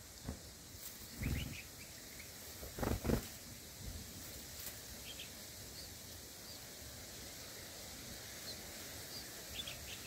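Short, faint, high bird chirps at a bulbul's nest, a few scattered through, over a steady hiss. Two louder low thumps come about one and three seconds in.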